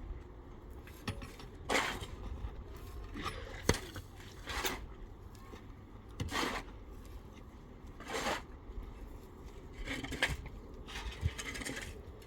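Irregular scraping and clinking strokes, one every second or two, over a low steady rumble.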